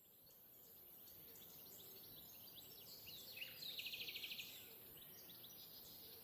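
Faint birdsong: scattered short high chirps, with a fast trill lasting about a second, starting about three and a half seconds in, over a steady hiss.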